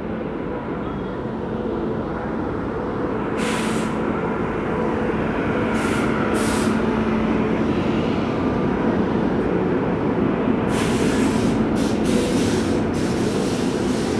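Train running with a steady low hum that slowly grows louder, broken by several short hisses of air, the longest near the end.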